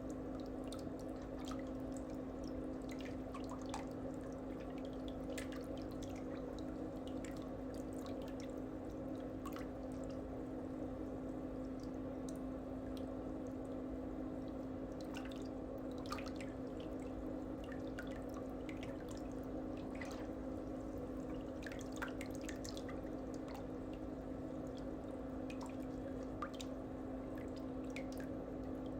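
A steady low hum, with small drips and ticks scattered irregularly over it.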